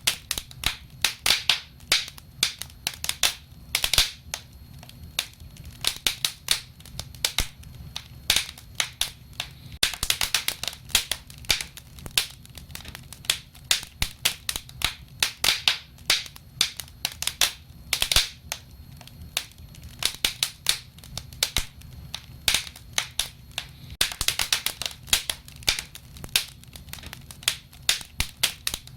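Wood fire crackling, with frequent sharp irregular pops over a low steady rumble. Thicker runs of crackling come about ten seconds in and again near the end.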